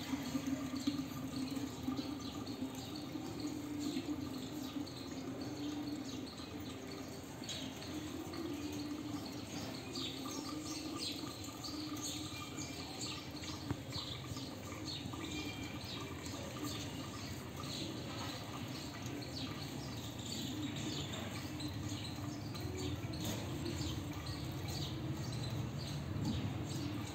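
Sparrows bathing in water: many small splashes and drips with short chirps scattered throughout, over a steady low hum.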